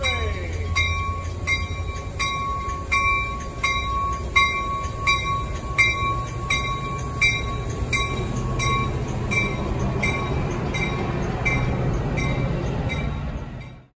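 Metra bilevel commuter train rolling past with a low rumble of wheels on rails, while a bell rings steadily at about three strikes every two seconds. The sound fades out near the end.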